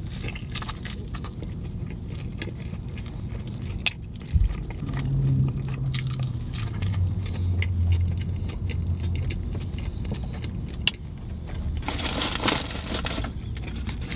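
Close-up chewing and biting of a fish sandwich, with wet mouth noises and small crunches, over a low steady rumble. There is a thump about four seconds in, a low hum for a few seconds after it, and a louder crackly stretch of crunching near the end.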